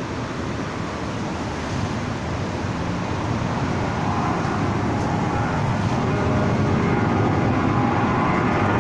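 Distant engine noise, a steady rumble that grows gradually louder.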